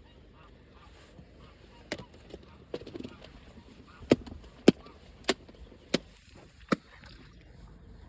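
A run of sharp knocks, five of them about two-thirds of a second apart in the middle, over faint honking calls in the background.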